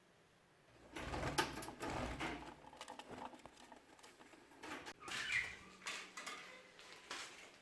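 Budgerigars scratching and rustling about with light clicks and soft thumps, starting about a second in, and a short chirp about five seconds in.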